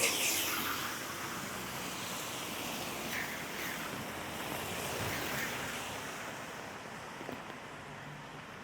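Steady hiss of rain and tyres on a wet street, swelling about five seconds in and then fading toward the end.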